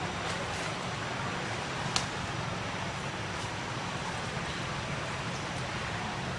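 Steady outdoor background noise with a single sharp click about two seconds in and a few fainter clicks.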